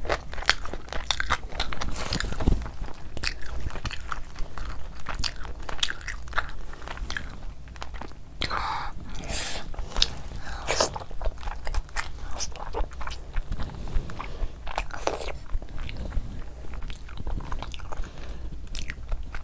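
Close-miked chewing of fufu and spicy chicken curry eaten by hand: a dense, steady run of mouth clicks and smacks, with a few longer noisy squelches.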